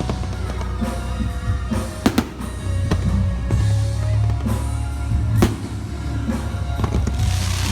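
Loud music with a heavy bass and drum beat from a fireworks show, with a few sharp fireworks bangs over it, about two seconds in, about five and a half seconds in, and near the end, where a hissing crackle swells.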